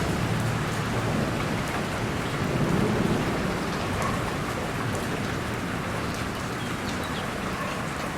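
Steady, dense rainfall with a low roll of distant thunder that swells about three seconds in and fades away.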